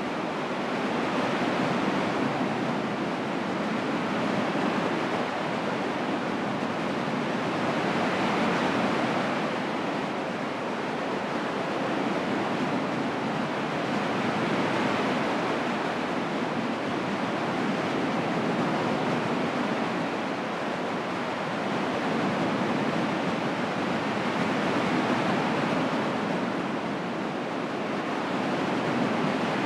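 Water rushing over small, gentle cascades: a steady wash of falling water that swells and eases slightly every few seconds.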